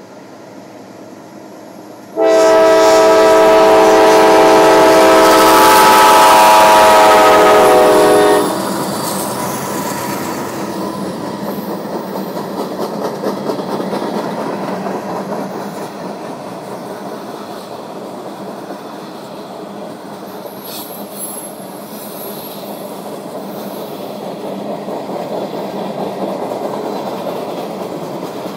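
CSX locomotive air horn sounding one loud, long blast of about six seconds, a chord of several notes, starting about two seconds in. The horn cuts off and the train rolls on with a steady rumble and clatter of wheels on the rails.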